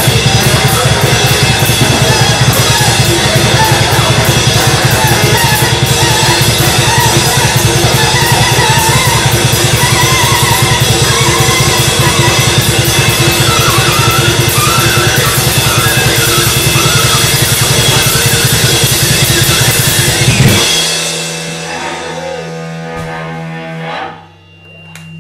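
Loud, dense free-improvised noise music: a drum kit played in fast, busy strokes with cymbals, under wavering tenor saxophone and cello lines. About five seconds before the end it stops abruptly, leaving one held low note that fades.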